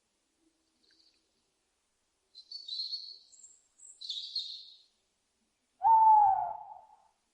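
Owl calling: two short, high-pitched screechy calls, then a loud single hoot about a second long that slides slightly down in pitch.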